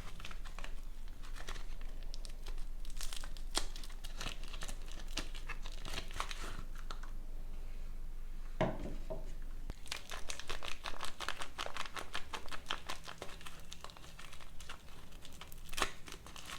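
Soap packaging crinkling and tearing as bars of soap are unwrapped by hand, in dense crackly bursts, with a single soft knock a little past halfway.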